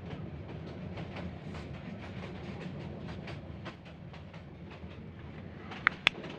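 Kurigram Express train running on broad-gauge track: a steady low rumble with wheels clicking irregularly over the rail joints. Near the end come two sharp, loud ringing pings about a quarter second apart.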